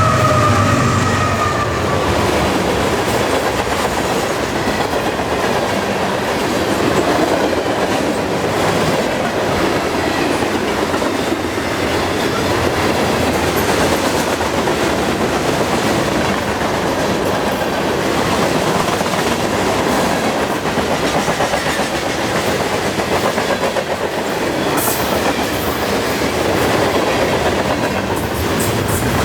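A long freight train's cars rolling past at speed: a steady rumble and clatter of steel wheels over the rail joints. The locomotives' engine hum fades out in the first couple of seconds, and a few sharp high clicks come near the end.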